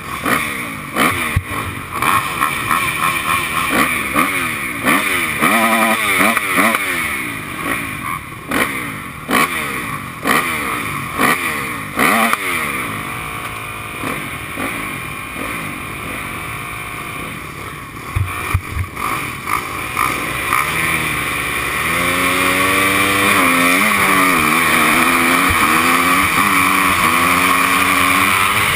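Motocross motorcycle engines in short revving blips, then from about 20 s in a single bike running hard under acceleration, its engine note climbing and dropping repeatedly as it goes up through the gears.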